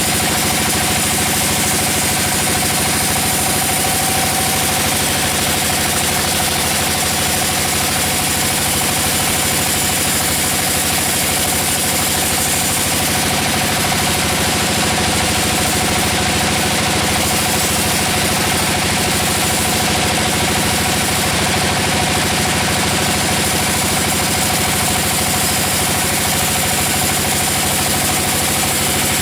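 Sawmill saw and its engine running steadily with an even hum and a constant mid-pitched tone, no breaks or changes.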